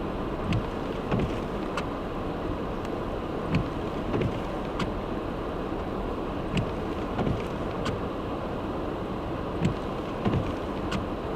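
Car driving on a slush-covered road: steady tyre and road noise, with sharp ticks and small thumps coming at irregular moments.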